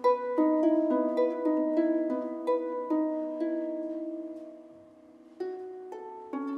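Harp playing an instrumental passage of quickly plucked notes that ring on and decay. The notes thin out and fade a little over four seconds in, then a new run of plucked notes starts about a second later.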